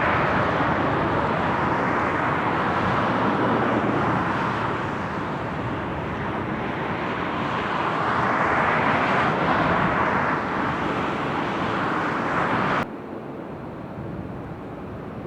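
Jet aircraft engine noise at an airport: a loud, steady rushing that swells and eases, then cuts off abruptly about thirteen seconds in, leaving a quieter rush.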